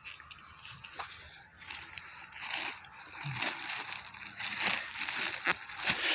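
Irregular rustling and crackling of forest-floor vegetation being trodden on and handled, with scattered small snaps.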